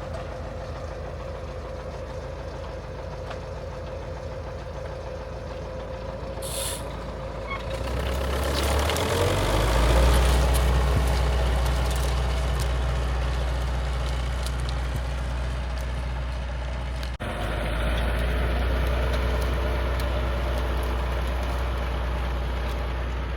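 Old tractor engine running steadily under work; it grows louder and deeper about eight to ten seconds in, then runs on, breaking off for an instant about seventeen seconds in.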